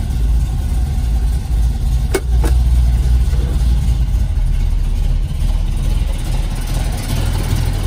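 A 1973 Dodge Challenger's V8 engine idling with a steady, loud low rumble shortly after a cold start, heard from inside the cabin. Two sharp clicks come a little over two seconds in.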